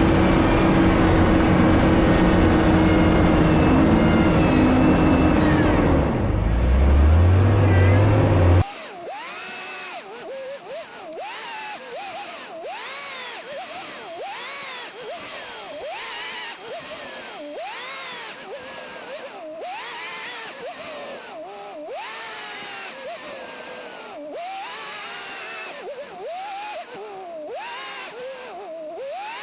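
An off-road vehicle's engine runs loudly and steadily, then rises in revs. About eight seconds in it cuts off abruptly to a much quieter stretch of short, repeated rising-and-falling whistling tones.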